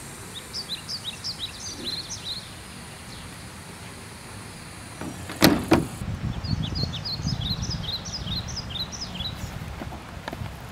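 Small birds chirping in quick runs of short high notes, twice. About halfway through come two loud bangs half a second apart, the loudest sounds here, followed by a low rumble.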